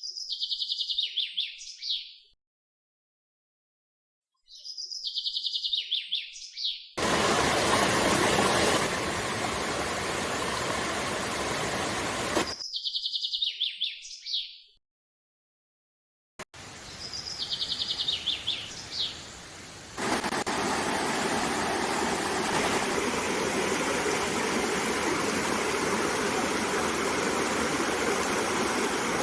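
A small songbird repeating the same short, high, fast trilled song four times, with dead gaps between some phrases. Rushing water from a stream runs under it for a few seconds near the middle and steadily through the last third.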